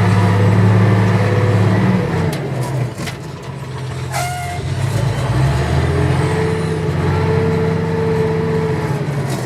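Fiat 1300 DT Super tractor's six-cylinder diesel engine running under load while pulling a ripper, its note dropping about two seconds in and shifting in pitch again later. A brief high squeak about four seconds in.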